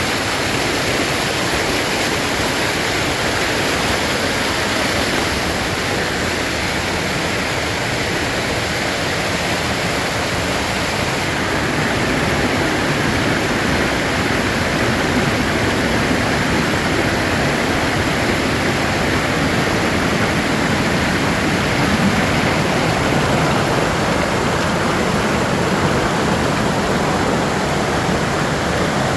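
Waterfall: water falling and rushing in a steady, dense roar with no breaks.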